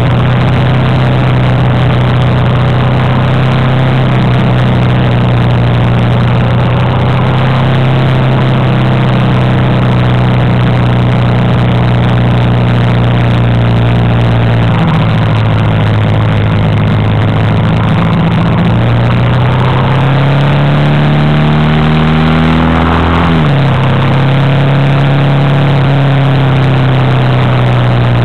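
Honda Africa Twin's V-twin engine running steadily at road speed, with wind and road noise. About twenty seconds in the revs climb for a few seconds, then drop sharply at a gear change and settle again.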